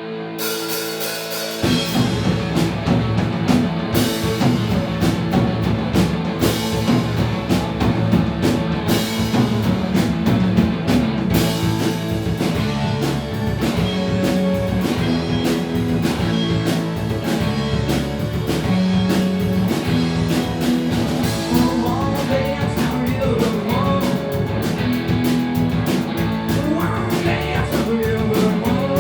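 Live rock band starting a song: a held guitar chord rings out, then drums, bass and electric guitar come in together about two seconds in and play on steadily. A voice sings over the band in the later part.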